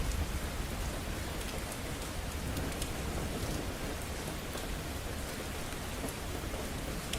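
Steady rain pattering on surfaces, with faint drop ticks, as the last of a low rumble of thunder dies away at the start.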